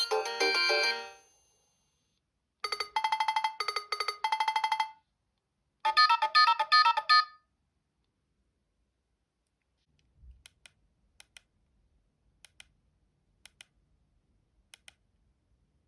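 Siemens S75 mobile phone ringtones: a polyphonic melody ends in the first second or so, followed by two short electronic jingles, one of repeated beeping notes and one a quick run of notes. After that come a few faint, scattered clicks.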